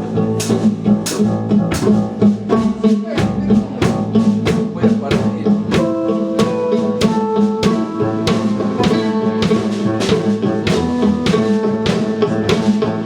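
A live band playing a song, a drum kit keeping a steady beat under held bass and melody notes; the full band comes in right at the start.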